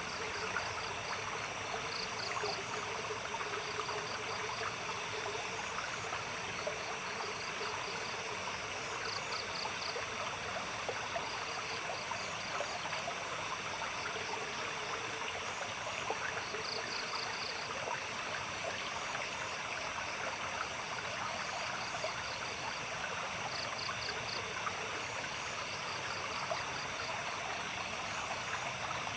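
A stream trickling and splashing steadily, over a night chorus of animals: short trains of rapid, high-pitched chirps every few seconds above a steady high insect drone.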